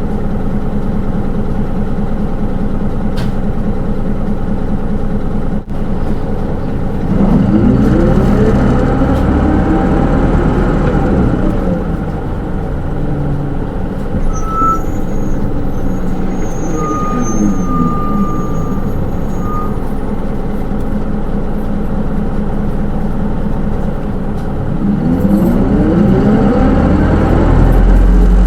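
Hino Rainbow II SDG-KR290J1 city bus heard from inside the cabin. Its diesel engine is idling, then revs up as the bus pulls away at about seven seconds, with the pitch rising and dropping as the automatic transmission shifts. It settles into a cruise and picks up again near the end.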